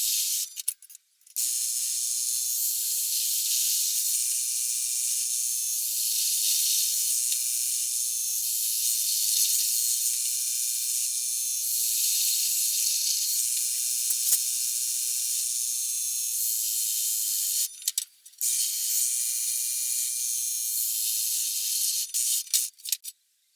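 Electric drill running as its bit cuts holes through sheet-steel rocker panels for spot welds. It runs in long steady spells, stopping briefly about a second in and again around eighteen seconds, and stops and starts a few times near the end.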